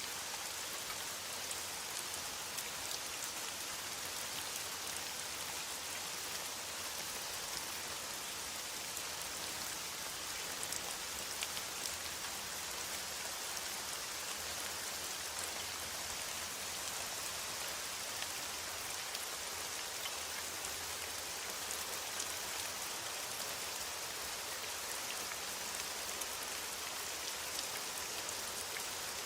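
Steady rain falling on forest foliage, an even patter with scattered individual drop ticks.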